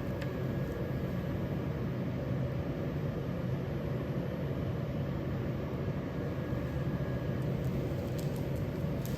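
A machine running with a steady low drone and a faint constant hum.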